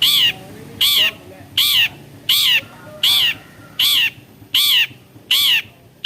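Long-tailed shrike repeating one short call about eight times, a little under a second apart. Each call rises and then falls in pitch.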